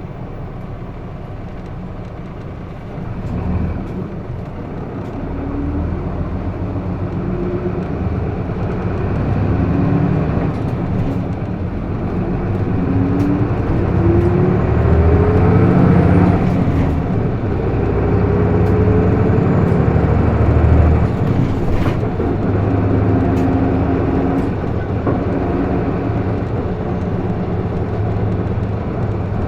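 Hino Blue Ribbon II city bus heard from inside the cabin as it pulls away and accelerates. The engine note rises repeatedly and falls back as the manual gearbox is shifted up through the gears, getting louder from a few seconds in.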